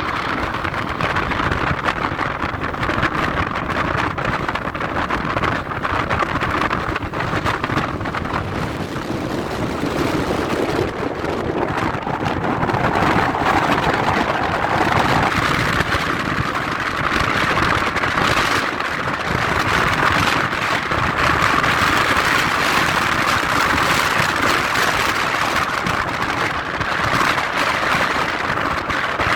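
Jet aircraft engines running: a loud, steady rushing noise with no clear beat, swelling slightly in the second half.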